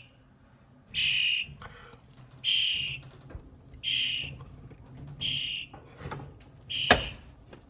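A bird trapped in a kitchen exhaust vent screaming: a short, shrill call repeated at an even pace about every second and a half, five times. A sharp click comes about seven seconds in.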